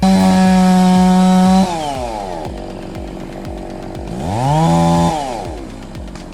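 Two-stroke chainsaw engine held at full throttle, then winding down, revved up again about four seconds in and let back down.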